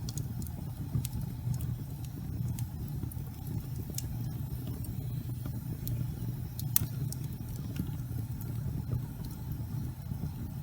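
Fireplace fire burning with a steady low rumble of flame, with irregular sharp crackles and pops scattered through it.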